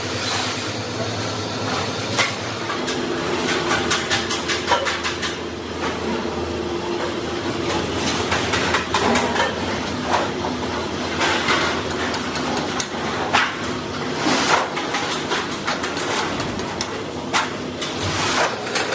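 Factory workshop noise: irregular sharp metallic knocks and clanks, several close together in places, over a steady machine hum.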